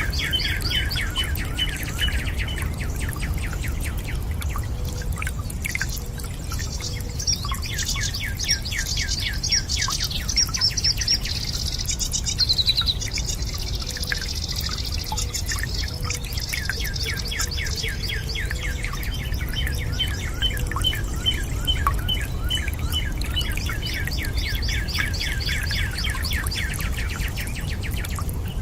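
Birds singing in long, rapid trills of repeated chirps, over a steady low rush of water.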